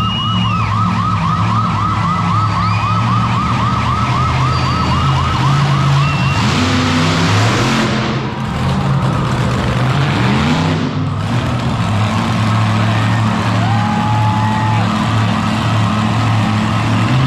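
Big engines running, revving up about seven and ten seconds in. Over them for the first six seconds is a fast, siren-like warble, about six chirps a second.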